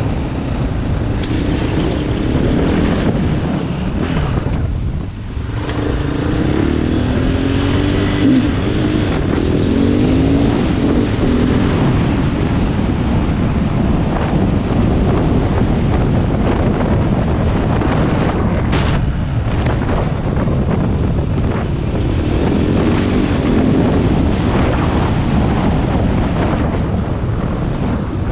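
KTM 500 EXC single-cylinder four-stroke dirt bike engine running under way, its note rising and falling with the throttle about a quarter of the way in and again near the end, under heavy wind noise on the microphone.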